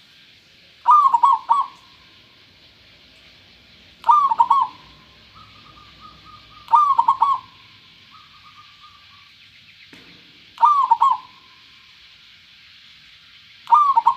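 Zebra dove (perkutut) cooing: five short bursts of its stuttering multi-note song, each under a second long, coming about every three seconds.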